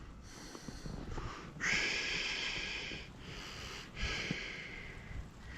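A person breathing near the microphone: about four long, hissing breaths in and out.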